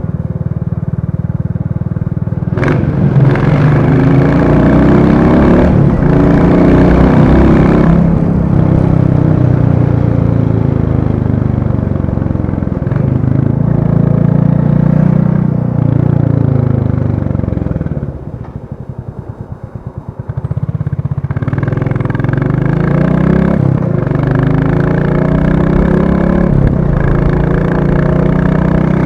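Royal Enfield Classic 350's single-cylinder engine running on the road, its pitch rising and falling as the rider opens and closes the throttle. About eighteen seconds in the throttle closes and the engine drops to a quieter, slow, even beat for a couple of seconds, then picks up and pulls again.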